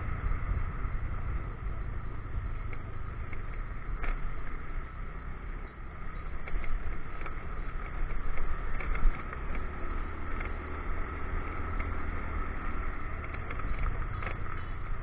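Motorcycle running while being ridden, mixed with wind rush on the action-camera microphone. Scattered short knocks and rattles come through from the rough, potholed road, with a louder jolt about nine seconds in.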